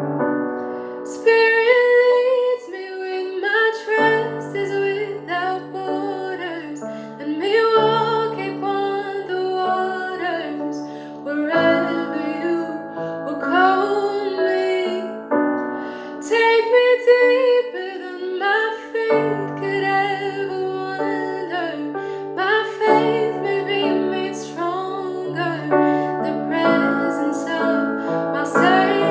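A woman singing a slow, wavering melody over sustained piano chords.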